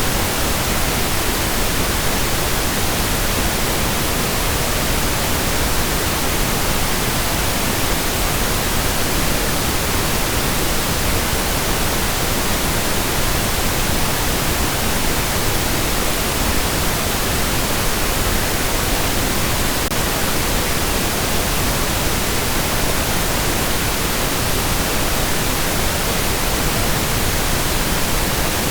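Steady pink noise: an even, unbroken hiss spread across the whole range, without tones or changes.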